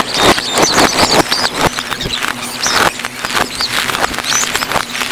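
Fireworks display played in reverse: a dense, unbroken run of pops and crackles with short squeaky chirps over it.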